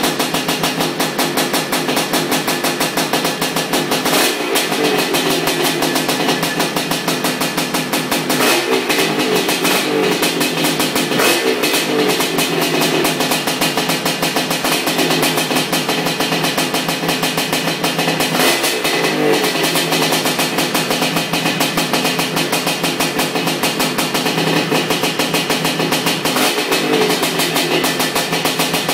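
ESR 310 big-bore two-stroke engine in a Honda 250R three-wheeler running on its first heat cycle: a loud, fast, even stream of exhaust pulses, with the pace changing briefly several times.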